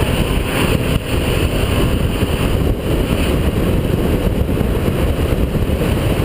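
Holden VP Commodore's 3.8-litre V6 under hard running on a race circuit, engine and road noise together at a steady high level, with brief dips about a second in and near three seconds in.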